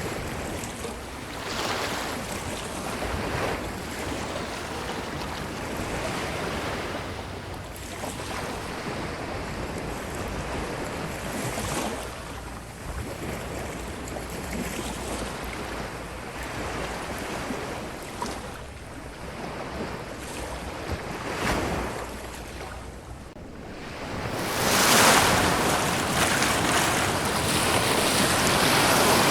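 Ocean waves breaking and washing up a beach. The surf swells and falls every few seconds, and a bigger, louder wave comes in near the end.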